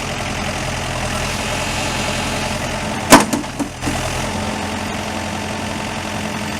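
2006 Terex 760B backhoe loader's diesel engine idling steadily. A sharp, loud clunk comes about three seconds in, followed by a couple of lighter knocks.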